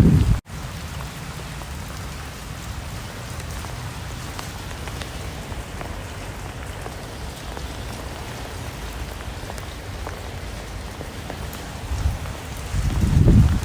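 Steady rain falling, an even patter with scattered individual drops. A brief dropout comes about half a second in, and a louder low rumble comes in near the end.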